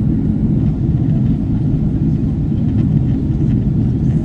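Cabin noise inside a Boeing 777-300ER in flight during descent: a steady low rumble of its GE90 engines and the airflow over the fuselage.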